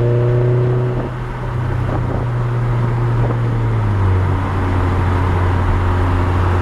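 2010 VW MK6 GTI's turbocharged 2.0-litre four-cylinder exhaust through a 3-inch APR downpipe and straight pipes, a loud low drone while driving. It eases off about a second in, and the note steps down slightly lower about four seconds in.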